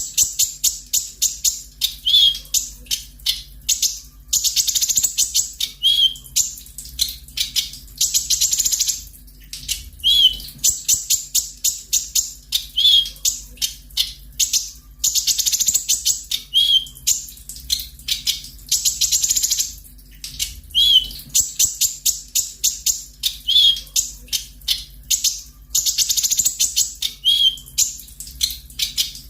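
Olive-backed sunbird singing fast, sharp, high trills in repeated bursts of a second or two. A short, curled, lower note comes every few seconds, over a faint steady low hum.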